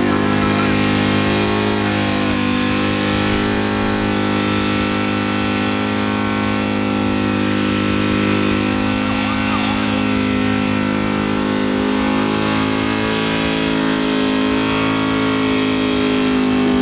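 Car engine held at high, steady revs for a long stretch during a burnout, with a steady rushing noise over it.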